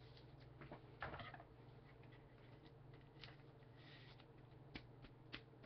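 Near silence: a steady low hum of room tone with a few faint, scattered clicks.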